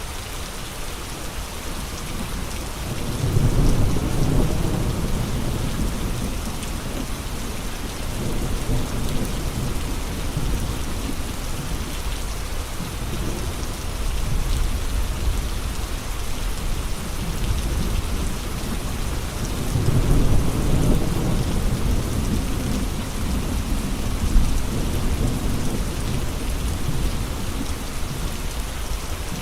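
Steady heavy rain with gusty wind, a continuous hiss. Two low rumbling swells rise and fade, one about three seconds in and another about twenty seconds in.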